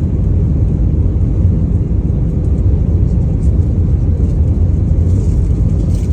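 Airliner cabin noise: a steady low rumble of the jet's engines and airflow, with no distinct events.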